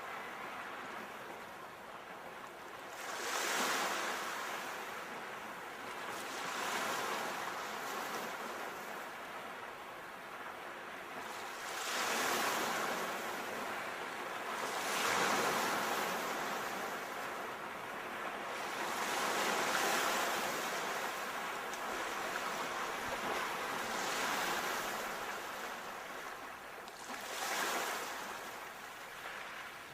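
Sea waves breaking, the surf swelling and washing back in a louder surge about every three to five seconds.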